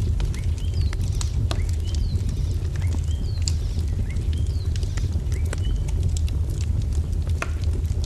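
Wood fire crackling with scattered sharp pops over a steady low rumble, while small birds chirp repeatedly in short, high, curving notes.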